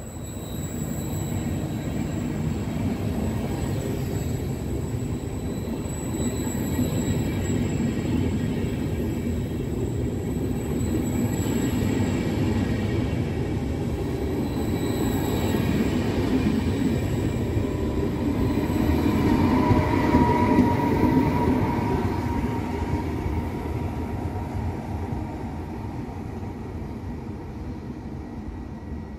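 Double-deck regional train rolling out past the platform: a steady rumble of wheels on rail that swells to its loudest about two-thirds through, with a brief ringing squeal, then fades as the last coaches pull away.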